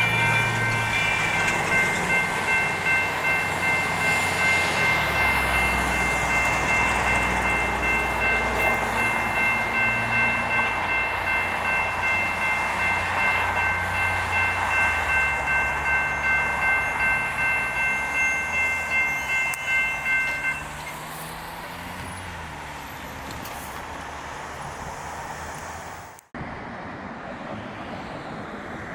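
Railroad crossing electronic bell (GS Type 2 e-bell) ringing steadily at about two strokes a second, over the low rumble of a passing light rail train. The bell stops about twenty seconds in, leaving a steady background of traffic noise.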